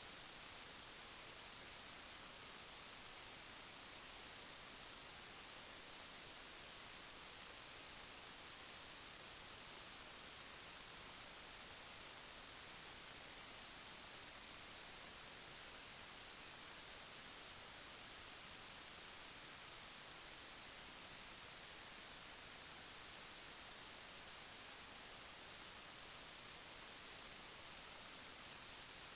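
A steady high-pitched whine over constant hiss, unchanging throughout.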